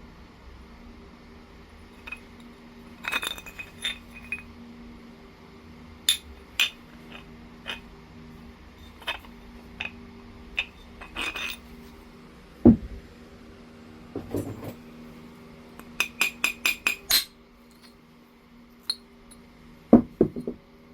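Pieces of Oregon jasper clinking and tapping as the stone is handled and struck: scattered sharp, glassy clicks that ring briefly, including a quick run of about six taps, with a couple of duller, heavier knocks.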